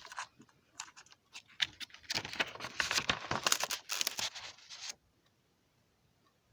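Irregular crackling and rustling noise, like crinkling or tearing material: a few sharp crackles at first, then a denser stretch, stopping abruptly about five seconds in.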